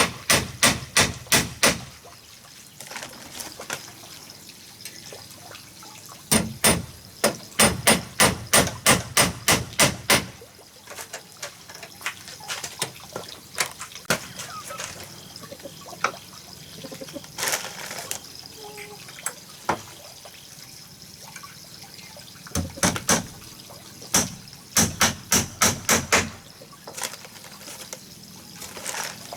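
Runs of quick, evenly spaced hammer blows on wood, about two to three a second: one run at the start, a longer one about six seconds in, and two short runs past twenty-two seconds, over a steady low hiss.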